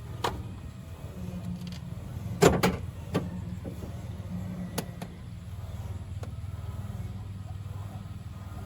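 A few sharp knocks over a steady low hum. The loudest is a double knock about two and a half seconds in, with single ones just after the start and near the middle.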